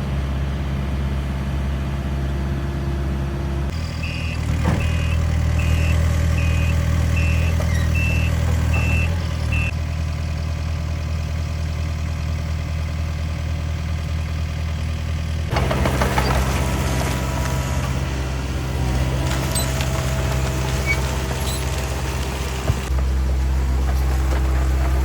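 A heavy vehicle engine running steadily, its note shifting a few times. A backup alarm beeps about eight times, a little under a second apart, between about 4 and 10 seconds in.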